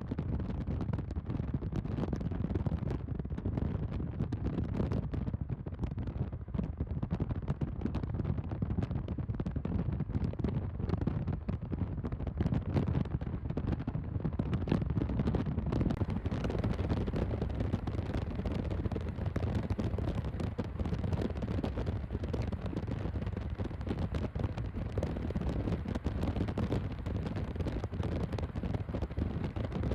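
Wind buffeting the microphone outdoors: a steady rumbling noise, a little brighter about halfway through.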